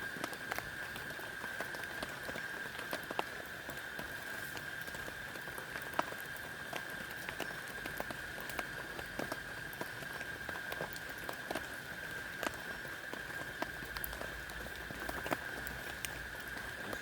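Rain pattering steadily, with many single drops striking at irregular moments. A steady high-pitched tone runs beneath it.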